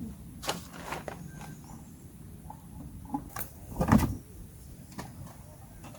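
A few short knocks and clatters, the loudest pair between three and four seconds in.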